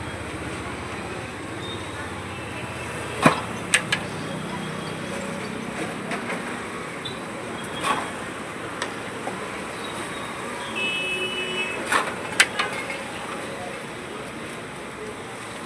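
Steady background hum with sharp clicks and knocks every few seconds, the loudest about three seconds in and about twelve seconds in.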